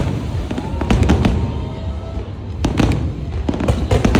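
Fireworks going off: several clusters of sharp bangs and crackle over a continuous low rumble, with music playing underneath.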